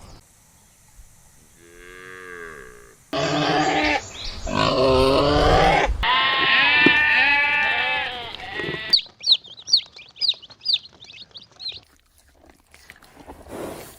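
Goat bleating: one faint wavering bleat, then three loud, drawn-out bleats with a quavering pitch. From about nine seconds in there is a quick run of about ten short, high chirps.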